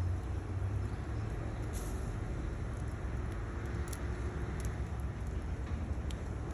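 Firewood burning in a stainless-steel Bushbox XL twig stove, with a few sharp crackles over a steady low rumble.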